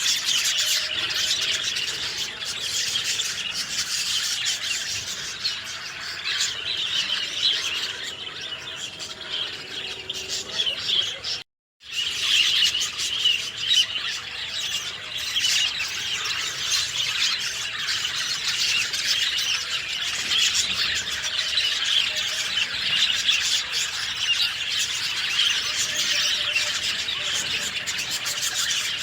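Dense chorus of many small birds chirping and twittering continuously, with no music. It cuts out completely for about half a second around eleven seconds in, then resumes.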